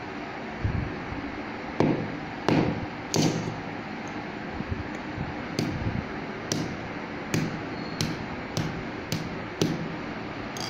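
A frozen-solid tomato piece being struck to break it apart: about a dozen sharp knocks at an uneven pace, roughly one a second.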